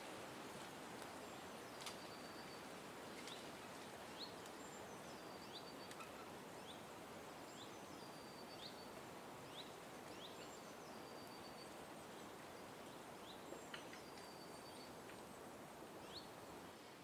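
Birds calling faintly over a steady background hiss: short rising high chirps about once a second, with a few thin held whistles that step up and down in pitch.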